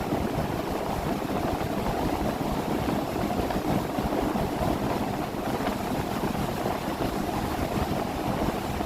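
Motorboat engine running steadily, with a constant low drone and water and wind noise.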